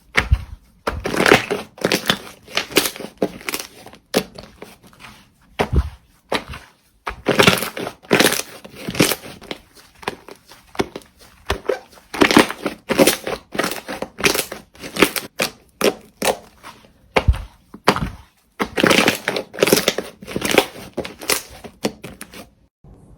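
Slime being squeezed and pressed by hand, giving a dense run of sharp crackles and pops that come in clusters, with short pauses a few times, the longest about three-quarters of the way through.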